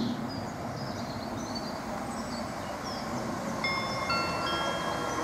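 Class 333 electric multiple unit approaching at speed: a low steady rumble, joined about three and a half seconds in by several steady high ringing tones that start one after another. Birds chirp in the first half.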